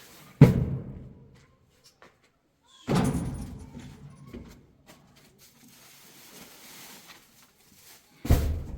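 Three loud thuds: one just after the start, one about three seconds in and one near the end, each dying away within about a second.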